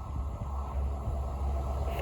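Low, steady vehicle rumble that slowly grows a little louder.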